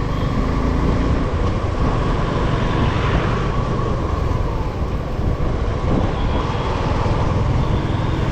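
A motorcycle riding on the road: a steady rumble of engine and wind on the microphone, with no change in pace.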